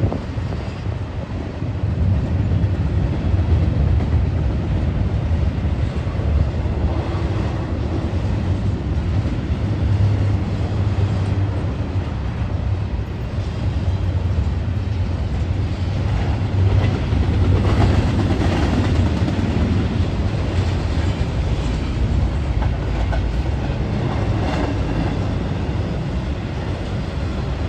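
Double-stack container freight train rolling past: a steady low rumble of steel wheels on the rails, with some clatter.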